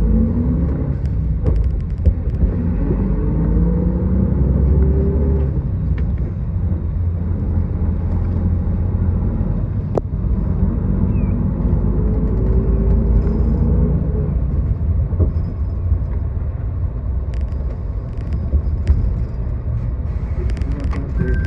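Route bus running, heard from inside: a steady low engine rumble, with the engine and drivetrain note rising in pitch twice as the bus accelerates, with a few faint clicks and rattles.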